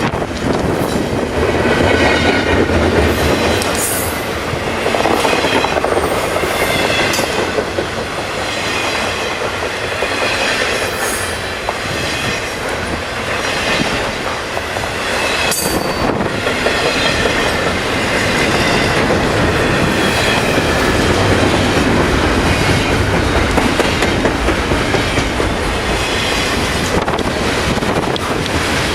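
Double-stack intermodal freight cars rolling steadily past, wheels clacking over the rail joints with an occasional sharp knock. A wavering high flange squeal rises and fades over the rumble, with wind buffeting the microphone.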